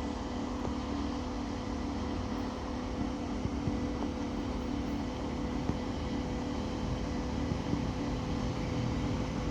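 Hitachi Class 802 bi-mode train arriving at the platform: a steady hum with two steady tones.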